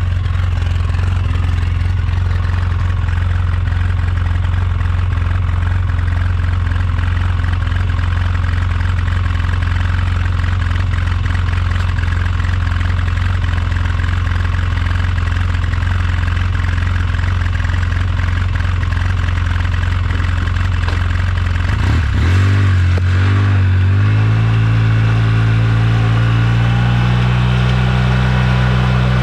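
2009 Polaris RZR 800 S twin-cylinder engine running steadily at idle, then picking up speed about 22 seconds in and holding at a higher, steady speed.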